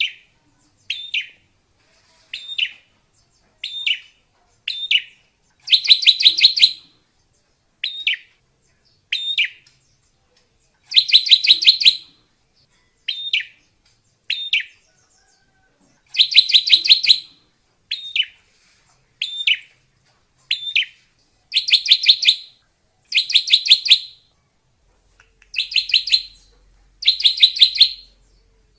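Drongo (srigunting) singing: single short falling whistled notes about a second apart, alternating with rapid chattering bursts of repeated notes, each burst lasting about a second.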